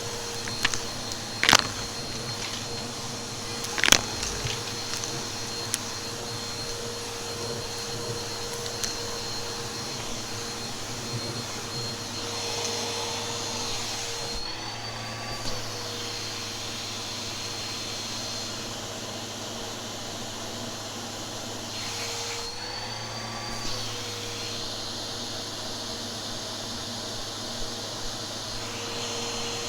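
Vacuum cleaner running steadily with a motor whine, with two loud sharp crackles about one and a half and four seconds in as it picks something up. The whine dips briefly in pitch and recovers twice, about halfway through and again later.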